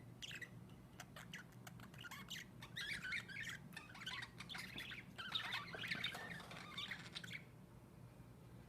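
Budgerigar chattering and warbling in quick chirps, with scattered clicks in the first couple of seconds; the warbling stops about seven seconds in.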